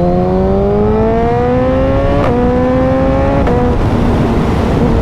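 Suzuki motorcycle engine pulling hard under acceleration, its pitch rising and stepping down at two upshifts, about two and a quarter and three and a half seconds in, then running steadier in the higher gear. Heavy wind rush over the microphone.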